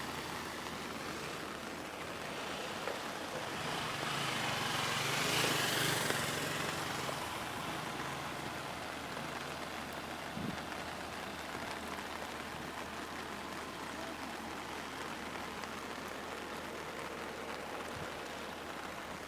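Heavy rain falling steadily. About four seconds in, a vehicle's engine hum swells and fades over a few seconds.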